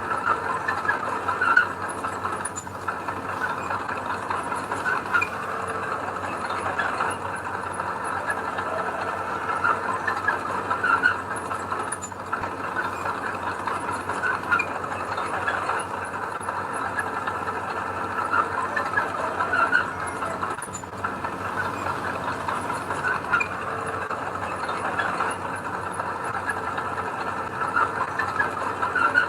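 Diesel engine of heavy earthmoving machinery running steadily under work, with a few brief louder moments.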